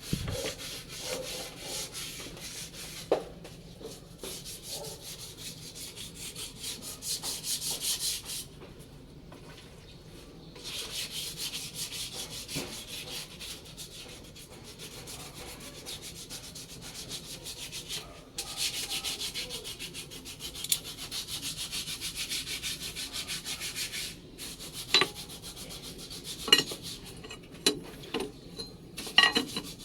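Rapid scraping or rubbing strokes, in runs of several seconds separated by short pauses, with a few sharp clicks near the end.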